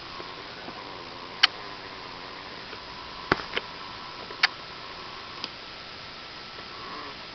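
Handling of a 1/18 scale diecast model car: about five sharp, irregular small clicks over a steady hiss with a faint hum.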